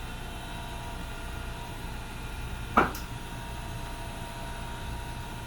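A steady machine hum with a few faint steady tones, with a single sharp clack just under three seconds in.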